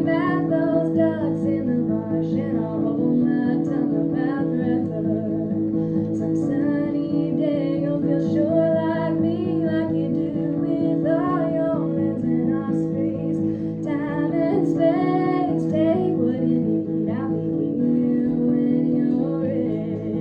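Music: a woman singing a slow song over guitar chords.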